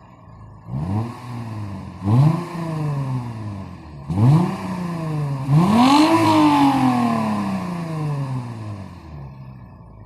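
Lexus IS 250's 2.5-litre V6 through a stage 1 adjustable exhaust, revved four times: three short blips, then a fourth, higher rev held longer before the engine falls slowly back toward idle.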